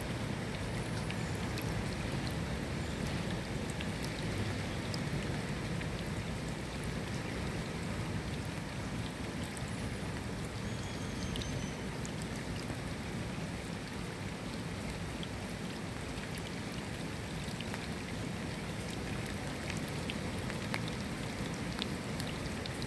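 Steady rain falling, an even wash of noise with individual drops ticking here and there.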